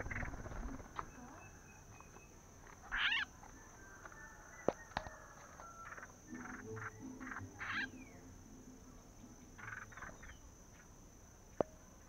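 Short bird calls in scattered bursts over a steady high-pitched insect drone, with a few sharp clicks.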